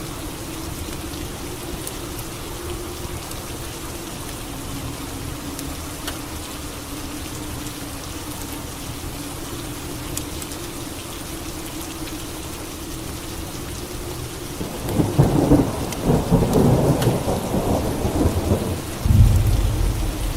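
Steady rain with a faint low wavering drone underneath. About fifteen seconds in, a rumble of thunder rolls for several seconds, and a heavier, deeper thunder hit comes just before the end.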